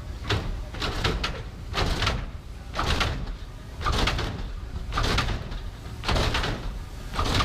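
Lowrider on hydraulics hopping: a slam and squeak about once a second as the car bounces, over a steady low rumble.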